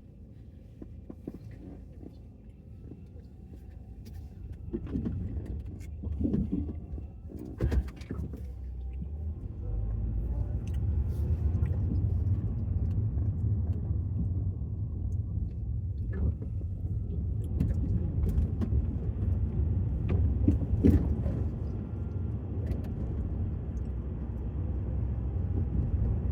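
Car cabin: low engine and road rumble, growing louder about ten seconds in and then holding steady, with a few knocks and clicks before it swells.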